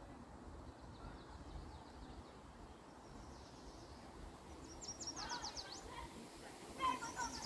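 Songbirds calling over faint outdoor background noise: a quick run of high repeated notes about five seconds in, and a louder call near the end.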